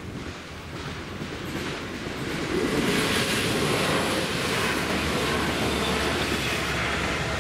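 Regional multiple-unit passenger train passing over a level crossing: its sound grows as it approaches and is at its loudest from about three seconds in, a steady rumble of wheels on the rails as the carriages go by.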